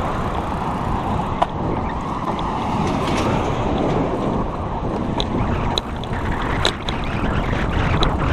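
Road bike being ridden: wind rushing over the microphone together with tyre and road noise, with a few sharp ticks and rattles from the bike.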